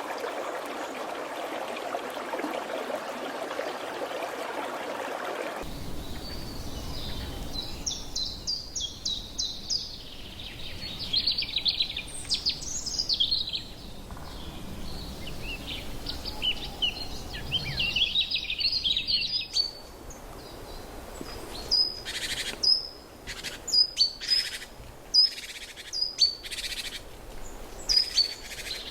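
Running water for the first few seconds, then, after a sudden change, birds calling: bursts of fast, high chirping, then a run of short, sharp calls about one a second near the end.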